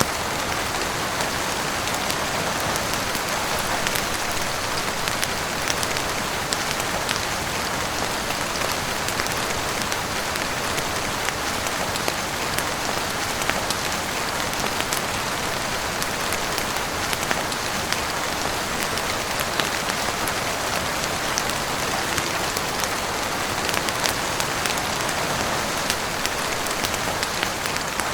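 Heavy rain falling steadily on a roof, a dense even patter with scattered sharper drop ticks.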